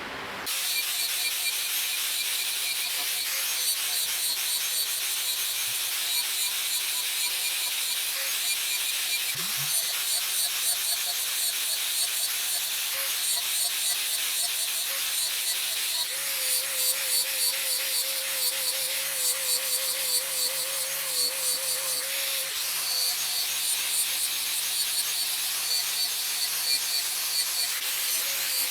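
Angle grinder with a flap disc running and abrading wood, a steady grinding hiss over the motor's low hum.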